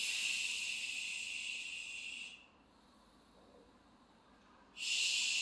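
A person hissing out breath through the teeth, twice, each forceful exhale lasting about two seconds with a pause between. It is a Pilates breathing technique: the hissed exhale pulls the belly and navel in.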